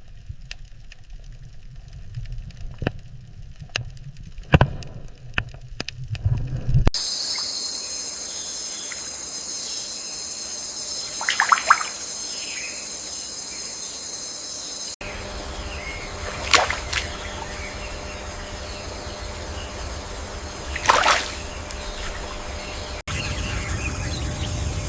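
Outdoor nature sounds edited in several segments that change abruptly: water trickling with scattered sharp drips and clicks, then a steady high hiss with a few short calls.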